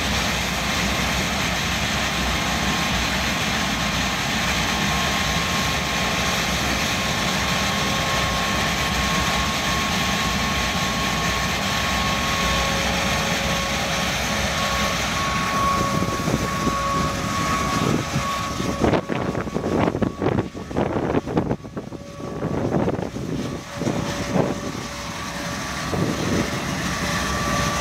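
Turbojet engine (a MiG-21's R11F-300) running with a steady roar and a high whine. Its pitch creeps up a little just past halfway. From about two-thirds of the way through, the roar turns choppy with irregular loud surges and drop-outs for several seconds, then settles back to a steady roar.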